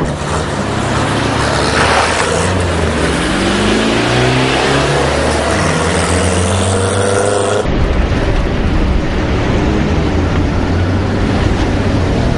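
Car engines revving hard during a chase, their pitch climbing and dropping as they accelerate and change gear. A little over halfway through, the sound changes abruptly to a steadier engine drone.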